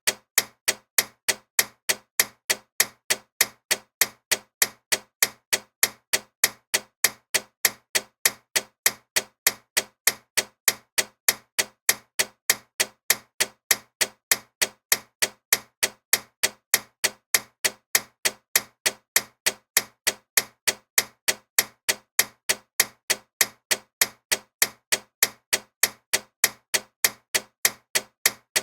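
Loud ticking clock: sharp, evenly spaced ticks, about two a second, going on without a break.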